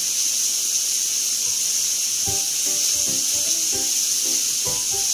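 Barbecue skewers and meat sizzling on an electric tabletop grill, a steady high hiss. Background music with short melodic notes comes in about two seconds in.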